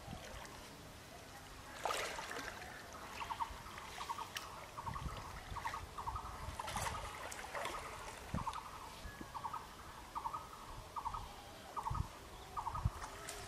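A bird calling over and over, each call a quick run of three or four short notes, repeated about twice a second from about three seconds in. Underneath are water sloshing and splashing as a seine net is dragged through a pond, and a few low thumps.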